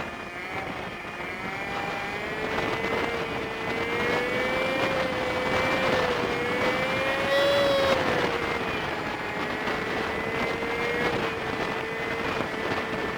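Honda Super Cub 50's single-cylinder engine running under way, with road and wind noise, heard through the dashcam at five times speed. Its pitch wavers, climbs to a peak a little past the middle and settles back.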